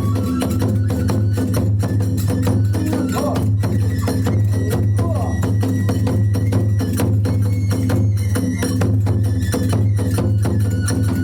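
Kagura ensemble music: fast, steady drumming with the clash of small hand cymbals, about four to five strokes a second, with a thin flute line held above.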